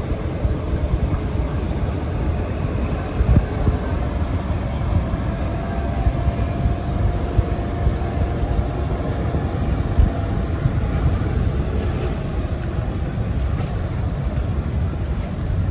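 Heavy tractor engines running steadily, with wind buffeting the microphone.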